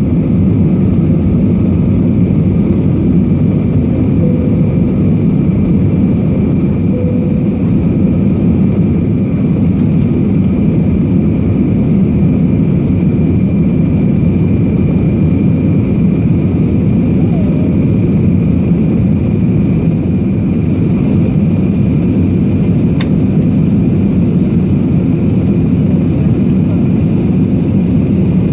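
Airliner engine and cabin noise after take-off: a steady low rush with a faint, even high whine above it, unchanging in level.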